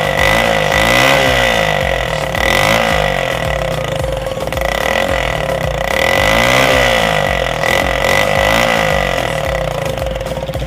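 Engine fitted with a homemade exhaust, very loud, revved over and over so its note rises and falls every second or two, with a steady high whine over the top.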